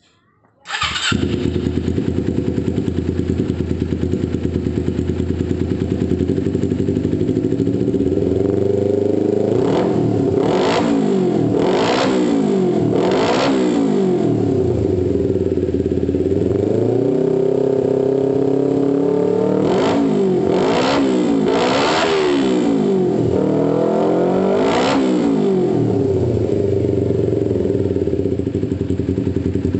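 Kawasaki Ninja 250 motorcycle engine through a Toce dual-outlet racing exhaust, starting up about a second in and idling, then revved in two groups of quick throttle blips, each rising in pitch and dropping back to idle.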